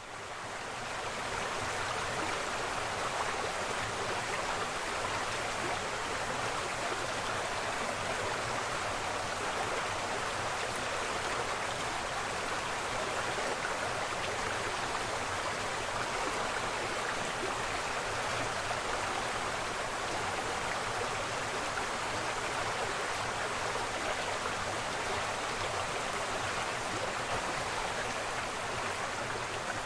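Waterfall rushing in a steady, even roar of falling water, fading in over about the first second.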